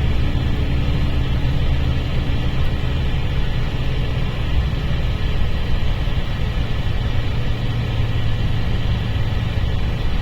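Mercedes-Benz O-500RSD coach's diesel engine running steadily with a low drone; a higher tone over it fades out about two seconds in.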